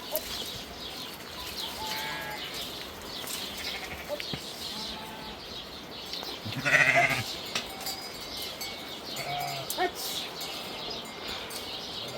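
Goats or sheep of a flock bleating: one loud, wavering bleat about halfway through, with a few fainter calls before and after. Small birds chirp throughout.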